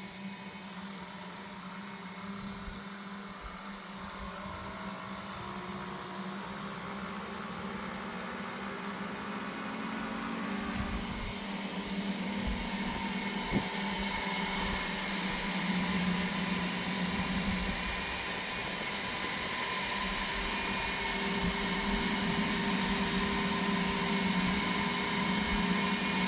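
EV DC fast charger running during a fast charge: a steady cooling-fan whir with an electrical hum that grows gradually louder, and one sharp click about halfway.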